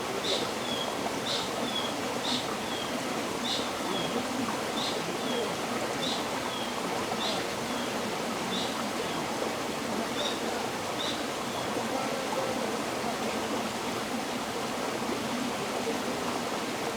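River water flowing steadily. A bird calls a short high note about once a second over the water, the calls spacing out and stopping about eleven seconds in.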